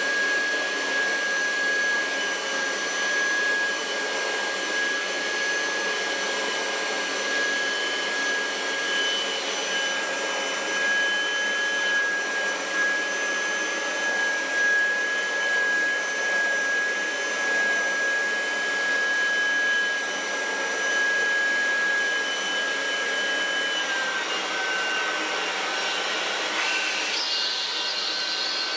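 Kirby Heritage II upright vacuum cleaner running steadily with a high motor whine over a rush of air. Its pitch drops slightly about three-quarters of the way through, with a short hiss near the end.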